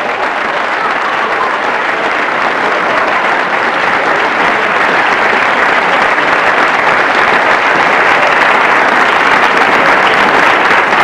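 An audience applauding steadily after a song ends, the clapping swelling slightly toward the end.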